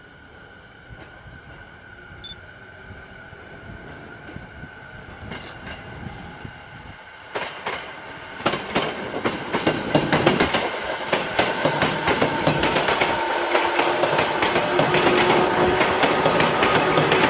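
A train running into the station and getting steadily louder. From about seven seconds in, its wheels clack quickly and repeatedly over the rail joints.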